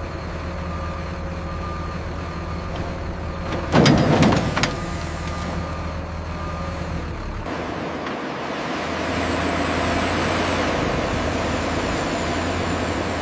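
Heavy vehicle engine running steadily during a lift, with a loud short hissing burst about four seconds in and a broader rushing noise joining about halfway through.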